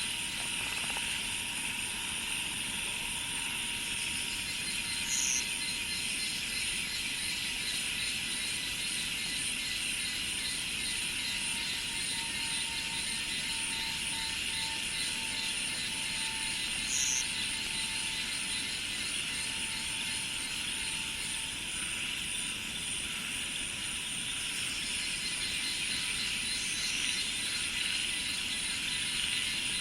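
Steady, unbroken chorus of insects such as cicadas, a high buzzing drone with a fine pulsing texture. Two short high chirps stand out, about five seconds in and again past the middle.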